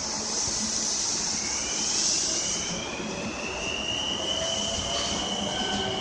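Electric commuter train pulling away from a station: the traction motors' inverter whine rises steadily in pitch as it accelerates, with a high hiss in the first few seconds and lower rising tones joining near the end.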